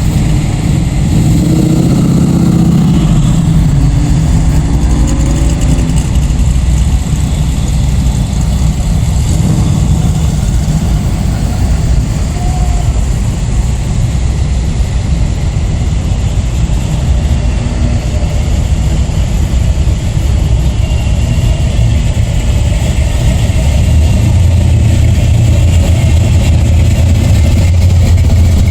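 Engines of hot rods and show cars passing slowly in a parade: a steady low rumble, with a few short revs in the first few seconds, growing louder near the end.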